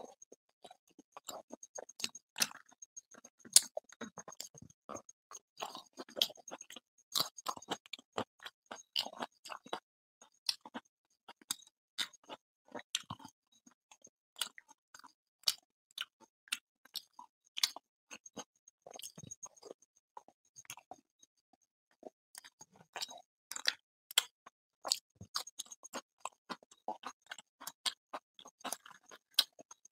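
Close-miked chewing and lip smacking of a man eating luchi and chicken curry by hand: many short, irregular wet clicks and smacks, with a faint high steady whine coming and going behind them.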